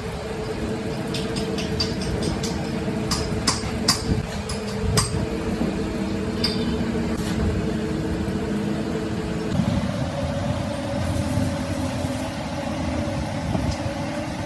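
Workshop machinery running with a steady hum, with a run of sharp metallic clicks and taps in the first few seconds; the hum shifts in pitch about two-thirds of the way through.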